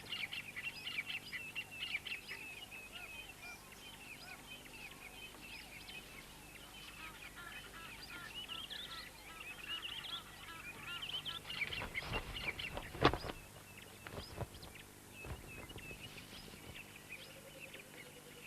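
Wild birds chirping and twittering in a dense, fairly faint chorus, with a few sharp knocks about twelve to thirteen seconds in.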